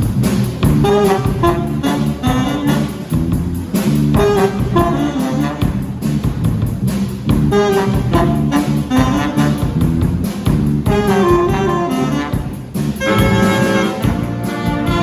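Band playing upbeat jazzy music, with a brass section of saxophone and trumpet over bass and drums. Short repeated melodic phrases give way near the end to held brass chords.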